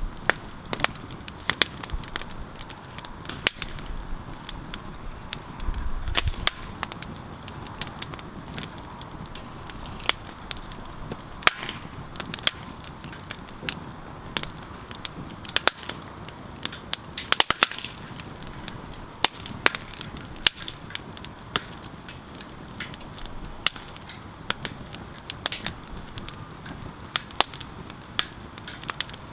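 Wood campfire crackling: irregular sharp pops and snaps over a soft steady hiss, with a dense flurry of pops about two-thirds of the way through.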